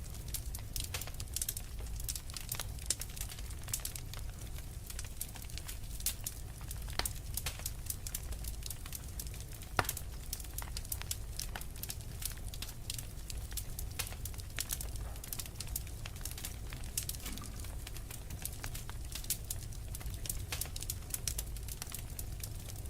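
Wood fire crackling in a fireplace: a steady low rumble of burning logs with many irregular sharp pops and snaps, one louder pop about ten seconds in.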